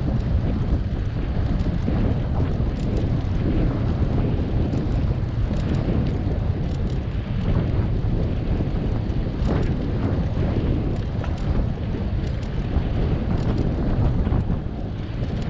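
Wind buffeting the microphone while cycling, a steady low rumble with a few faint light ticks over it.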